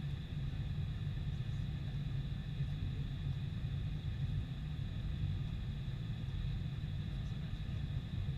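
Boeing 747-400's four jet engines running steadily: a low rumble with a steady high whine on top, neither rising nor falling.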